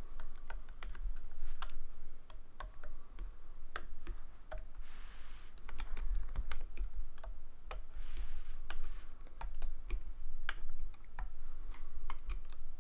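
Irregular light clicks and taps of a loom hook and rubber bands being worked on a plastic Rainbow Loom, with two short rustling scrapes about five and eight seconds in, over a low steady hum.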